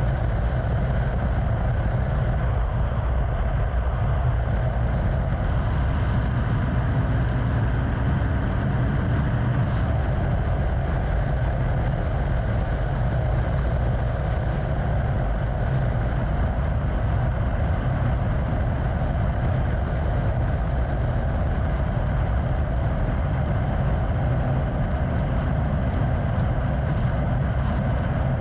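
Vehicle cruising at a steady highway speed: a constant engine drone under wind and road noise, with no revving or gear changes.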